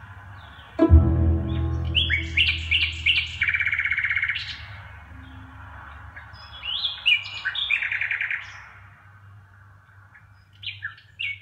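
A songbird singing loud, varied phrases of clear whistled notes and fast trills, in two main bursts with a quieter gap, and a short burst again near the end. A thump about a second in is followed by a steady low hum.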